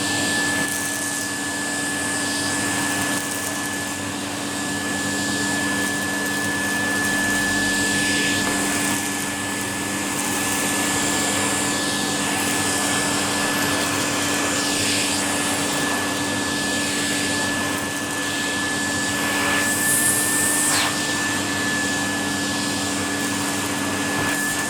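Numatic Henry vacuum cleaner running steadily, a constant airflow rush with a high, even whine on top, while it sucks up small stones from a carpet.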